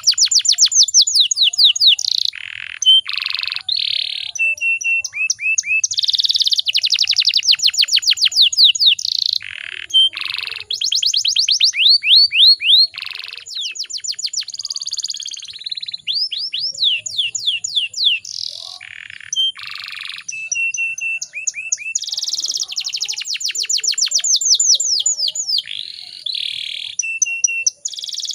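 Domestic canary singing a long, continuous song of rapid trills and rolls. Fast runs of repeated sweeping notes alternate with short, lower phrases.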